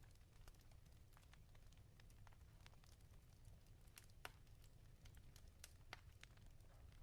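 Wood fire crackling in a fireplace: faint scattered pops and snaps, the two sharpest about four and six seconds in, over a low steady rumble.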